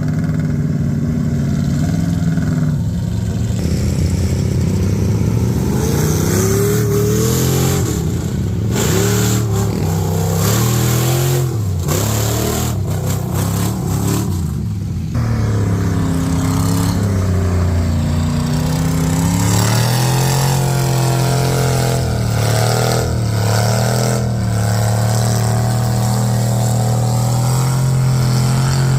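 Mud truck engine revving hard, its pitch climbing and dropping again and again, then holding high, steady revs from about two-thirds of the way in.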